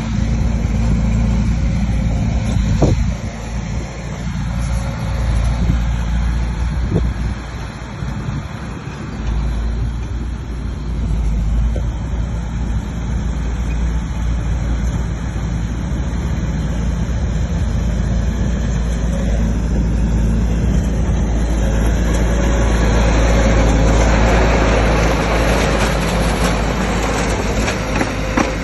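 Bulldozer's diesel engine running steadily, with a couple of sharp knocks in the first several seconds. Its sound grows louder and rougher about three-quarters of the way through.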